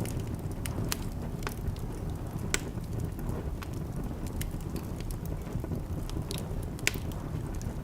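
Wood fire burning in a fireplace: a steady low rumble of flames with scattered sharp crackles and pops, a couple of them louder than the rest.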